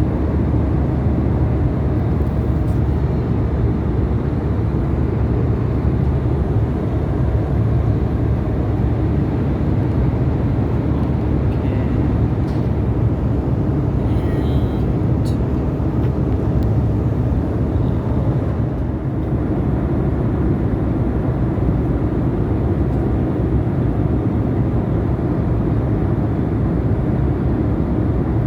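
Steady low rumble inside the cabin of an Airbus A320 in flight: engine and airflow noise.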